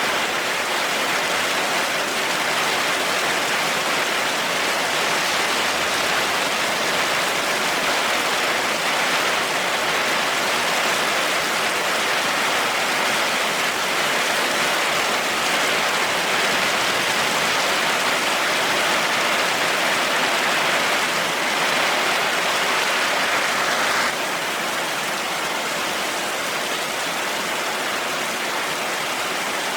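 Steady heavy rainfall, a dense even hiss with no thunder. About 24 seconds in it drops suddenly to a slightly quieter, thinner sound.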